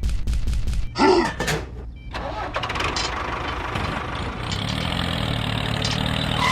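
Rapid evenly spaced bangs stop just under a second in, followed by a short loud burst. Then an engine starts and runs steadily to the end.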